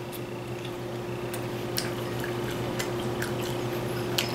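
Chewing a mouthful of chicken burrito: scattered small wet mouth clicks and smacks over a steady low hum.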